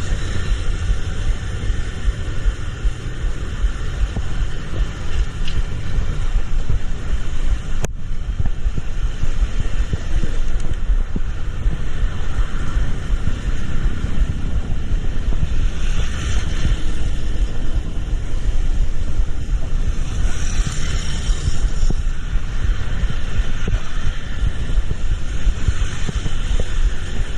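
Steady low rumble of a vehicle on the move, with road and wind noise; a sharp click about eight seconds in, and two swells of hiss later on, such as spray from passing traffic.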